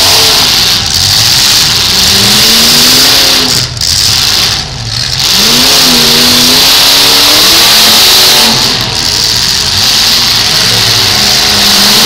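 V8 demolition derby cars' engines revving hard and running loud, their pitch rising and falling again and again, with a brief dip twice near the middle.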